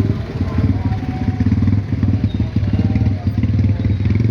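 A motor engine running steadily and loudly, a low sound with a rapid, even pulse.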